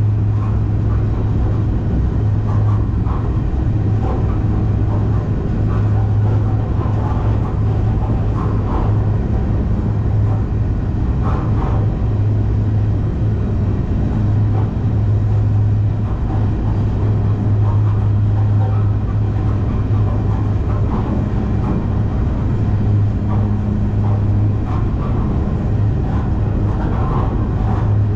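Freight train rolling along the rails: a steady, loud, low drone that holds without a break.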